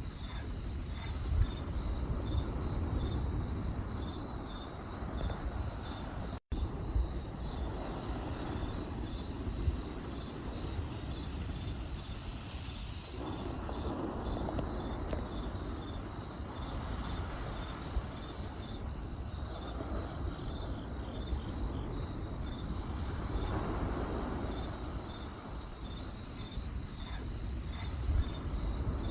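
Crickets chirping in a steady, evenly pulsed trill over the low rumble of a crackling campfire, with a few sharp pops. The sound drops out for a split second about six and a half seconds in.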